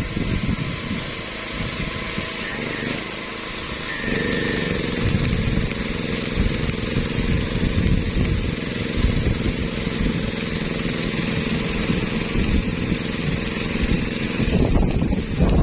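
Engine running steadily, with irregular low buffeting from wind on the microphone; about four seconds in the engine grows louder and its note steadies.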